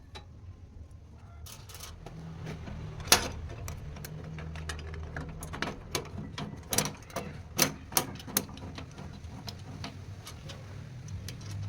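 Irregular sharp clicks and knocks, about a dozen, over a low steady hum, like hard parts being handled or tapped.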